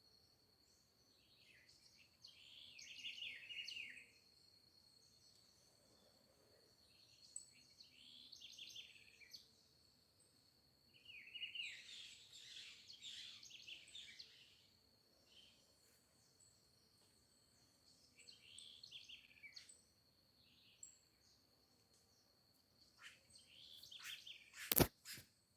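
Songbirds singing in short phrases every few seconds, over a faint steady high-pitched tone. Near the end come a few sharp clicks, one of them the loudest sound.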